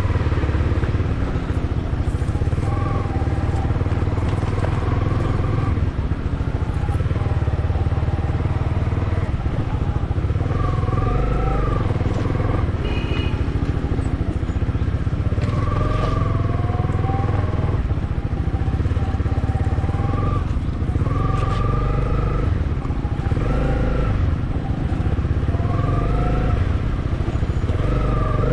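Motorcycle engine running over a rough off-road forest track, its revs rising and falling again and again, over a heavy steady low rumble.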